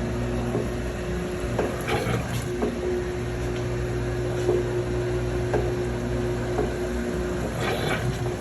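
Washing machine tub on its spin cycle, the motor giving a steady hum with one fixed tone and a light knock or click every second or so, while the spun-out water is pumped to the drain.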